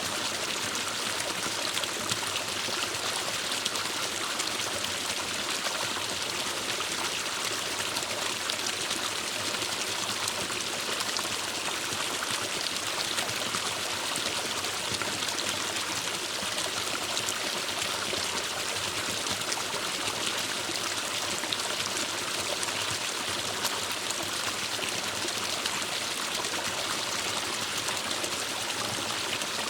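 Forest stream flowing steadily over rocks, a continuous even rush and trickle of water.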